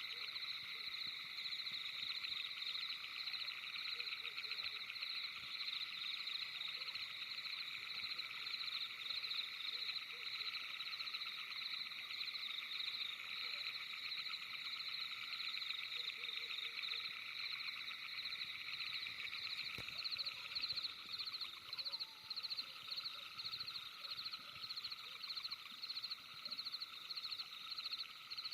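Dense night chorus of many small calling animals, a steady high trilling in several layered pitches that swells and dips in a slow pulse during the second half.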